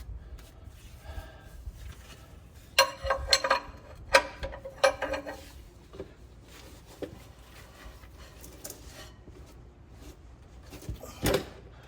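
Steel hand tools clinking and clanking: a handful of sharp, separate metallic clicks and knocks, clustered a few seconds in and once more near the end, as a wrench is worked on a seized bolt.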